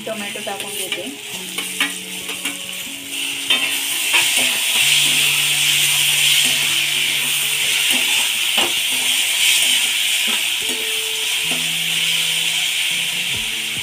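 Chopped onions and tomato frying in hot oil in a pan, sizzling, with a spatula scraping and tapping the pan as they are stirred; the sizzle grows louder about four seconds in. Background music with held notes underneath.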